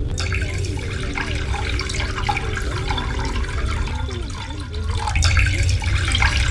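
Running water gurgling and splashing, over a low rumble.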